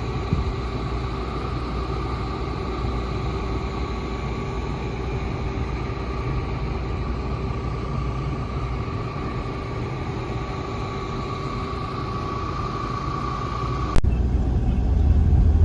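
Steady rumble of a moving vehicle with a faint, steady whine over it, growing louder after a cut near the end.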